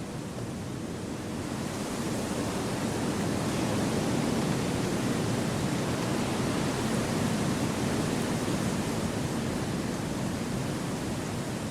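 Wind blowing through a forest: a steady rushing that swells over the first few seconds and then holds.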